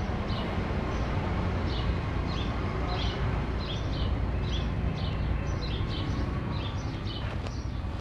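Small birds chirping in garden trees, short high calls repeating about two or three times a second, over a steady low rumble.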